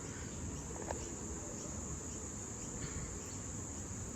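Steady high-pitched chorus of insects, likely crickets, over a low, even rumbling noise, with a faint tick about a second in.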